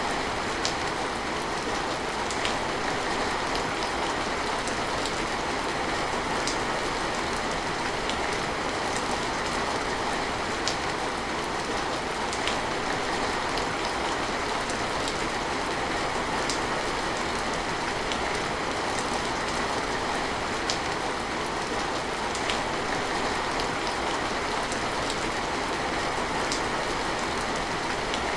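Steady rain falling, an even hiss, with scattered sharp drips tapping every second or two.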